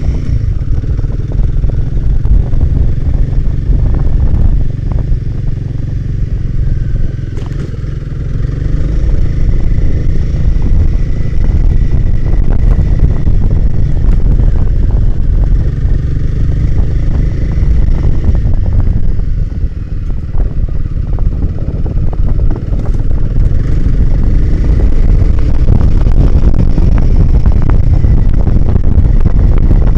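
Motorcycle engine running as the bike rides along a trail, a loud low rumble with a rough, buffeting texture, easing briefly about two-thirds of the way through before picking up again.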